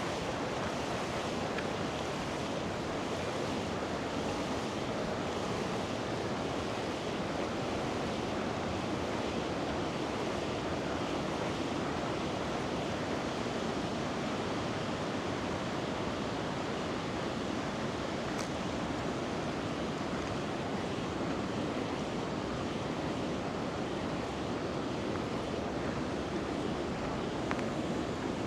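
River water rushing, a steady even rush of flowing water with no let-up.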